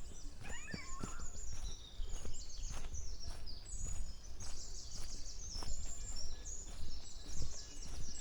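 Small birds chirping and twittering in quick, high-pitched runs, over a steady low outdoor rumble.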